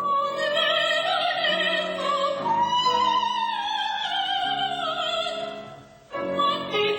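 A woman's operatic voice singing a classical line, holding long notes with a wide vibrato and gliding between them, with a short break about six seconds in before the singing resumes.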